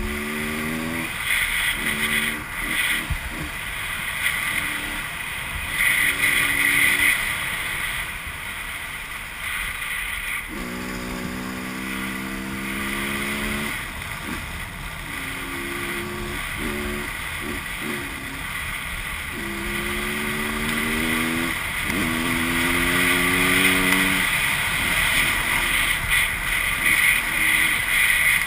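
Two-stroke 125 cc enduro motorcycle (Husqvarna WRE125) ridden hard, its engine note climbing and dropping in stretches as the rider works the throttle and gears. Heavy wind rush runs throughout on the helmet-mounted camera.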